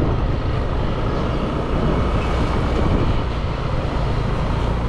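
Motorbike riding along the road, its engine running steadily under a dense wash of wind and road noise.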